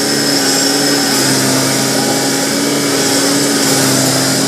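Rice combine harvester's diesel engine running steadily at even revs, a constant hum with machinery noise over it.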